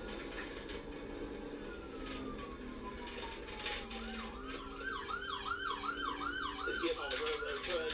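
Police cruiser siren sounding during a pursuit: a slow falling wail, then switching about four seconds in to a fast yelp of about two and a half up-and-down sweeps a second, over steady road noise.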